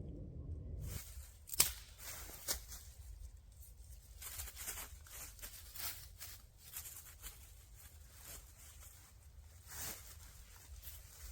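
Irregular rustling, crinkling and clicking of camping gear being handled up close, with a sharp click about a second and a half in and another about a second later. A low rumble stops abruptly about a second in.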